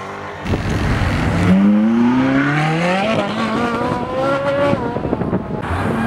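Performance car accelerating hard, its engine note rising steeply over several seconds, cutting off abruptly near the end.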